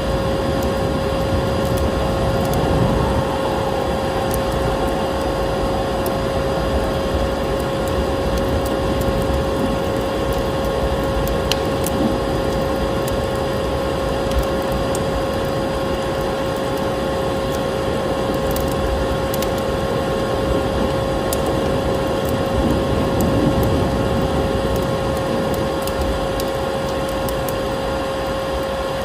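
Vacuum cleaner running steadily, a constant motor whine over a broad rushing hiss, mixed with the scattered crackles and pops of a wood fire burning in a fireplace.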